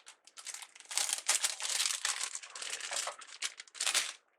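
Deco mesh and ribbon crinkling as they are handled and tied onto a wreath. A few scattered crackles come first, then dense crinkling for about three seconds.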